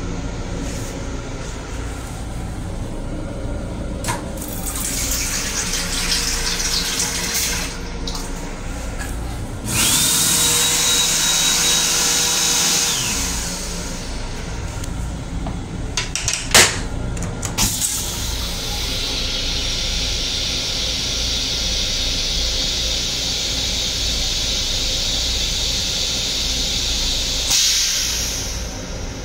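Toilet flush cycle in an M7 commuter railcar's restroom: a motor whines steadily for about three seconds, a couple of sharp clicks follow, then water hisses for about ten seconds. The moving train's low rumble runs underneath.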